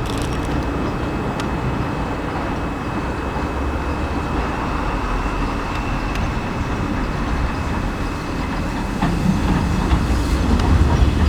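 Train running with a steady rumble, getting louder about nine seconds in.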